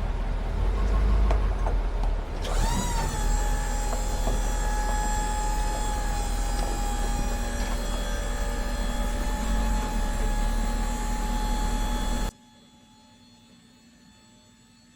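Truck running with a steady low rumble; about two and a half seconds in, a hiss and a steady whine join it. Near the end the sound cuts off abruptly, leaving only a faint hum.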